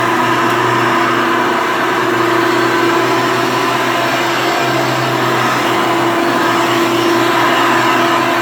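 Vintage Hoover Elite vacuum cleaner running steadily at full power, a loud, even motor hum with a whine over it.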